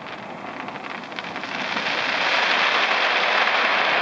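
Fireworks crackling: a dense, rain-like hiss of many small pops that swells louder about two seconds in and then holds.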